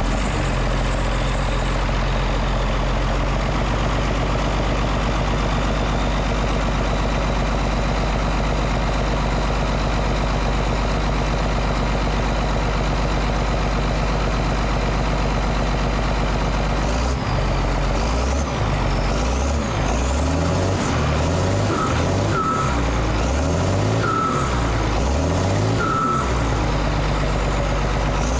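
Prentice 2432 log loader's engine running through its freshly redone exhaust: a steady idle, then revved up and down over and over from a little past halfway. A few brief high tones come in among the revs.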